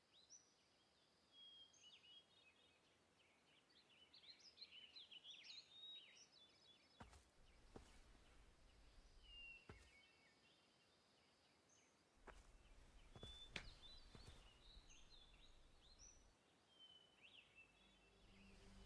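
Faint outdoor ambience of small birds chirping and twittering, with a few soft clicks and a low rumble underneath. A low, sustained music tone fades in near the end.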